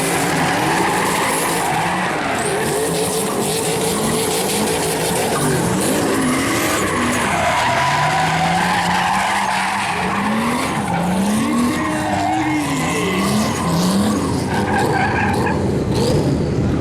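Turbocharged drift car revved hard up and down again and again as its tyres skid, with sharp pops and bangs from the anti-lag system in the exhaust.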